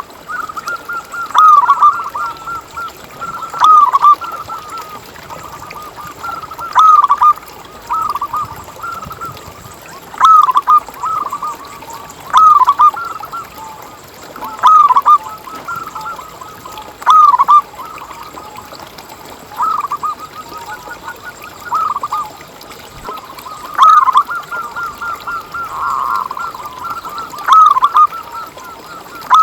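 Zebra doves (perkutut) cooing: a loud, rolling coo phrase about every two to three seconds, with softer trilling coos in between.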